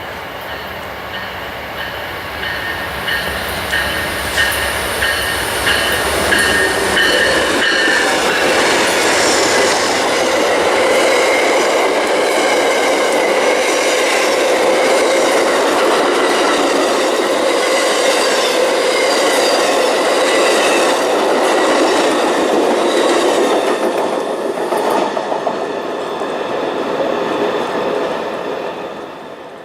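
A train rolling past close by, its wheels clicking over the rail joints. It builds over the first several seconds, holds loud, and fades away near the end.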